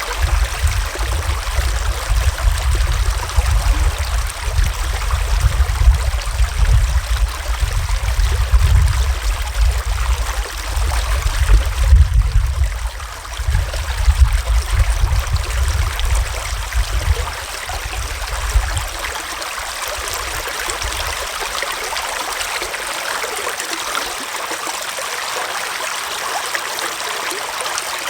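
Forest stream flowing, a steady rush and trickle of water. Underneath, a fluctuating low rumble dies away about two-thirds of the way through.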